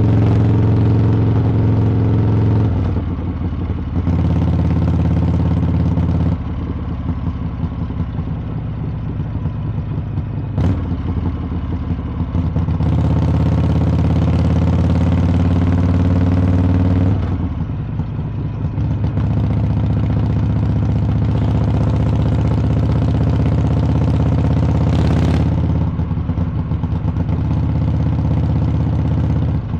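Harley-Davidson V-twin exhaust under way, going back and forth between louder stretches on the throttle and quieter stretches off it. Two sharp clicks stand out, about ten seconds in and again near the end.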